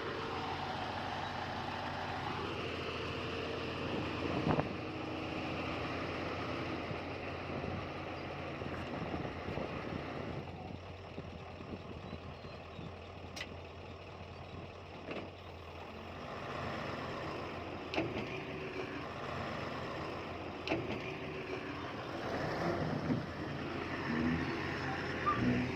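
Heavy diesel earthmoving machinery running steadily, with a few sharp knocks and clanks now and then.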